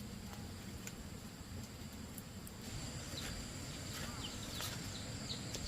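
Outdoor ambience: a steady high insect drone, with short falling chirps from about three seconds in and a few scattered sharp clicks.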